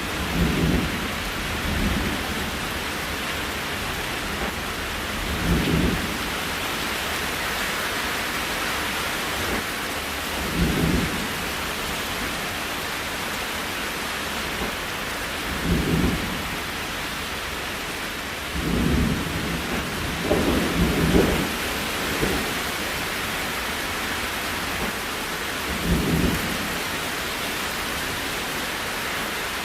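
Steady rain hiss, with short, deep thumps every few seconds.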